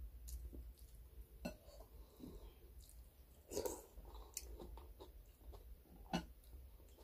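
Quiet chewing and mouth sounds of someone eating, with a few sharp clinks of a metal spoon against a glass bowl.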